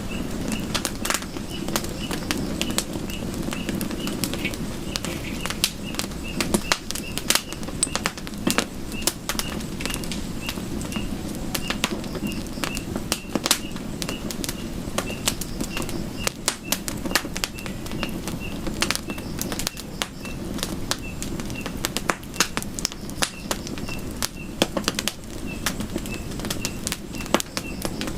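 Campfire burning, wood crackling and popping in quick irregular snaps over a steady low rush of flame. A faint high chirp repeats evenly, about twice a second, behind it.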